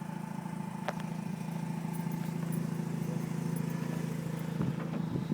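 Mazda RX-8's 1.3-litre twin-rotor Renesis rotary engine idling with a steady, quiet hum under the open hood. A single click comes about a second in, and some rustling noise starts near the end.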